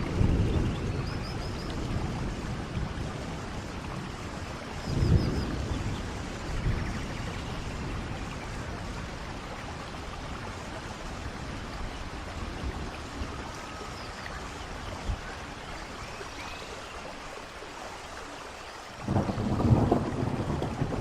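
Steady hiss of rain and falling water at a waterfall. Deep rumbles swell in at the very start, about five seconds in, and again near the end, where they are loudest.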